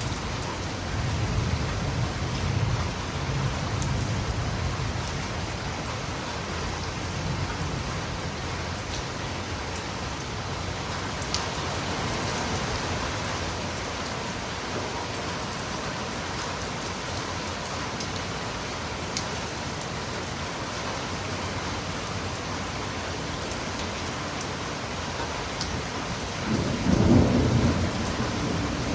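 Steady rain falling on a tiled roof, with a few faint sharp drip ticks. A low rumble swells in the first few seconds and a louder one comes near the end.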